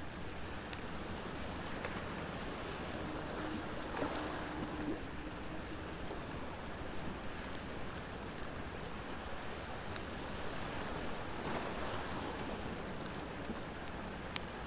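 Ocean waves washing steadily on the shore, swelling twice, with a wood bonfire crackling and giving a few sharp pops over it.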